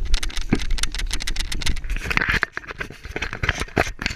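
Rapid clicks and rattles, with wind rumbling on the microphone for the first two seconds or so.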